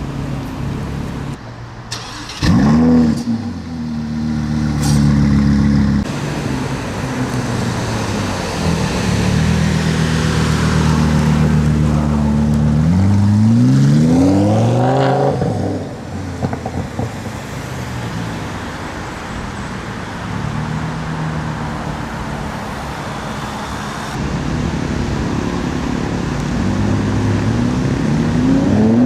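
Lamborghini Huracán LP580's V10 engine through a loud race exhaust, running steadily in traffic. It gives a sharp rev about two and a half seconds in, a long rising full-throttle acceleration around the middle, and starts another rising rev near the end.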